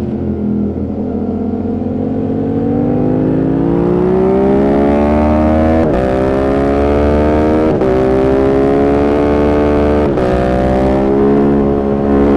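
Yamaha YZF-R7's parallel-twin engine through an aftermarket M4 exhaust, accelerating hard on track. The revs dip briefly, then climb in a rising drone, with quick upshifts about six, eight and ten seconds in, each one a sharp break and a drop in pitch before the engine pulls up again.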